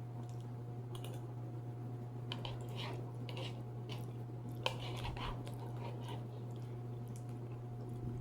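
Close-up chewing of cooked potatoes dusted with li hing mui, with irregular wet and crunchy mouth sounds and one sharp click about halfway through, over a steady low hum.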